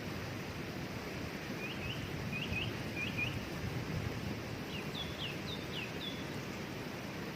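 Steady rush of falling water from a waterfall, with a small bird chirping over it: short paired chirps from about a second and a half in, then a run of slightly higher chirps around five seconds in.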